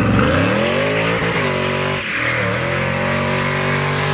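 Car engine revving. The pitch climbs over the first second or so, sags briefly about two seconds in, then holds at a steady high rev.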